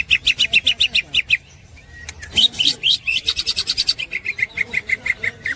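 Cucak ijo (green leafbird) singing its ngekek song: fast strings of short, sharp repeated notes, about nine a second, in two runs broken by a short pause.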